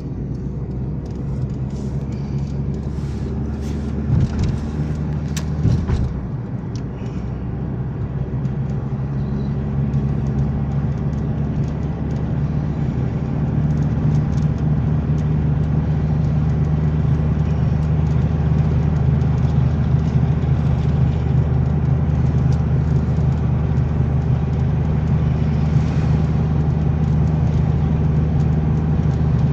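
Car engine and road noise: a steady low hum that grows louder between about a third and halfway through, then holds steady, with a few light knocks early on.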